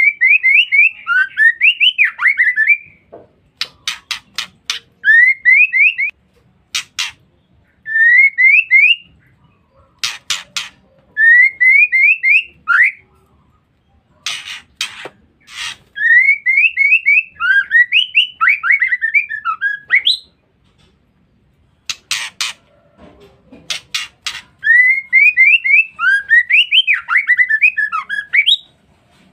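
Female white-rumped shama calling: repeated phrases of quick rising chirps alternate with short bursts of harsh rasping notes, the chattering 'ngeriwik' call.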